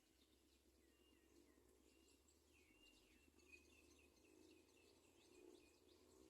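Faint bird chirping: a run of short, high chirps over a quiet background hum.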